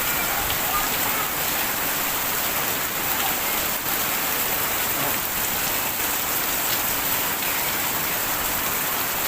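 Heavy rain falling steadily and pouring on surfaces.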